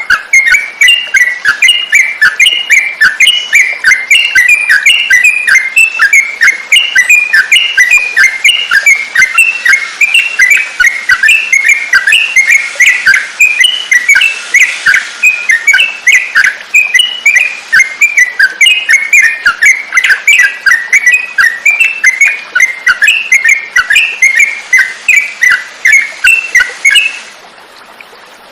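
Yellow-vented bulbul (trucukan) calling in a fast, unbroken run of short, loud chirping notes, several a second, that stop abruptly near the end.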